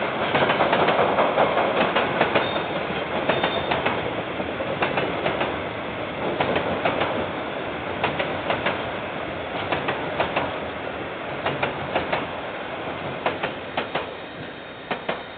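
Train wagons rolling past, their wheels clicking over the rail joints in quick pairs over a steady rumble; the sound fades away toward the end as the train draws off.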